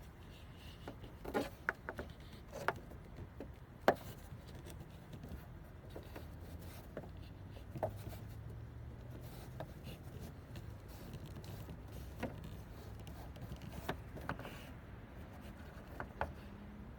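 Scattered light knocks and clicks of hands handling a part on a van roof, the sharpest knock about four seconds in, over a faint low hum.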